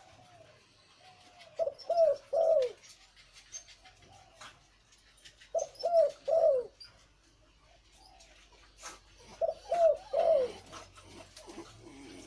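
Male zebra dove of the Thai 'Liu Tan' song type cooing. It gives three phrases about four seconds apart, each a soft lead-in followed by a few loud, deep notes that fall in pitch at the end.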